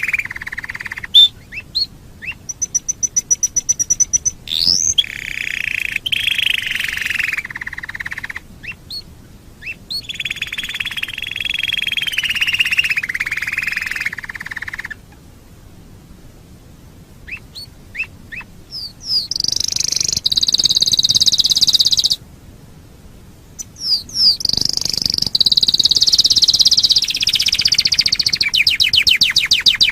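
Domestic canary singing: a series of long, fast rolling trills, the earlier ones lower and the later ones higher, broken by short pauses.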